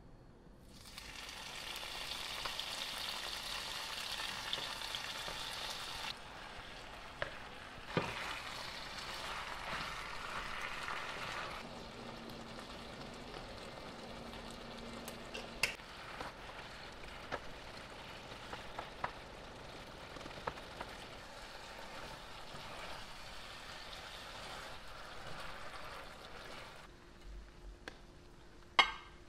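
Marinated chicken and vegetables sizzling as they fry in a nonstick pan, strongest at first and dying away near the end. Scattered sharp clicks of a spatula against the pan, with one loud clack near the end.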